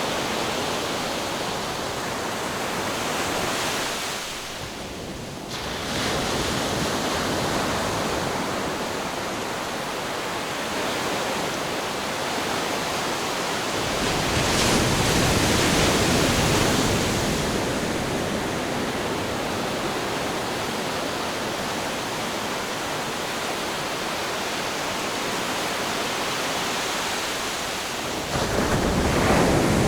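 Ocean waves breaking on a shore: a steady wash of surf that dips briefly about five seconds in, swells louder about halfway through, and surges again near the end.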